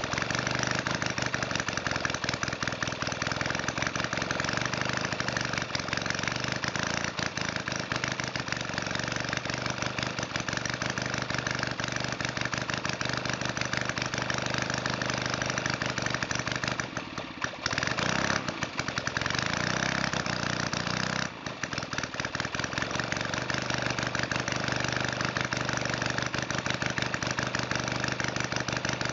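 Valach 170cc engine running steadily, set slobbering rich on both needles and a 25:1 oil ratio. Its sound drops briefly twice, a little past halfway and again a few seconds later.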